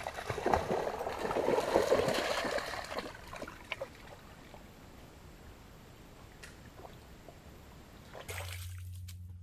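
Water splashing and sloshing in a shallow creek as a dog wades in, loudest over the first three seconds, then quieter lapping and trickling. Near the end the sound changes abruptly to a steady low hum.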